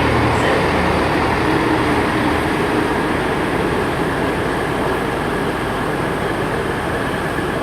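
Class 158 diesel multiple unit pulling out of the station under power, its diesel engines running with a low rumble that eases off slightly after the first couple of seconds.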